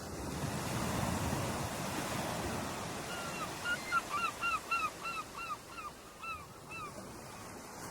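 Ocean waves washing on a shore, one surge building over the first second. From about three seconds in until near the end, a bird gives a quick series of about a dozen short calls, each dropping in pitch.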